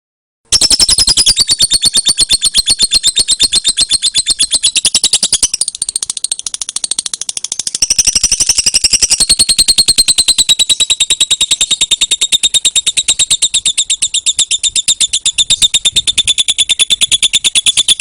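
Lovebird 'ngekek': a long, rapid, high-pitched chattering trill of many notes a second, starting about half a second in and carrying on without a pause.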